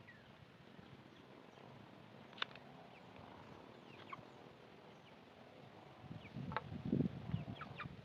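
Faint birds chirping, with a few sharp clicks and a louder stretch of low knocking and rubbing about six seconds in.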